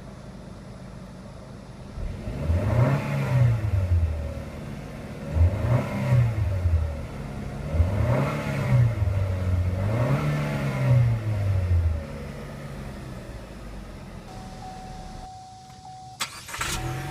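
Chevrolet Sonic turbocharged four-cylinder engine revved four times while parked, each rev rising and falling in pitch over about two seconds, then settling back to idle. A single sharp knock near the end.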